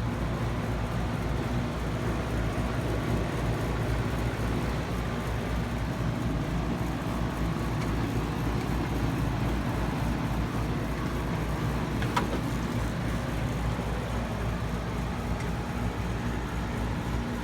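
2013 Kawasaki ZX-6R's inline-four engine idling steadily through a full M4 carbon exhaust system, a low even pulsing with no revs.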